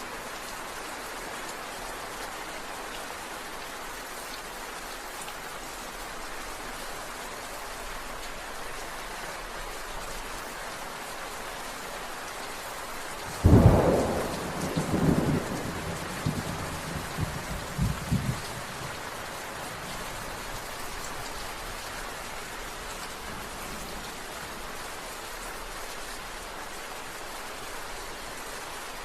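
Steady rain falling, with a sudden thunderclap about halfway through that rumbles on in several swells for about five seconds before fading back into the rain.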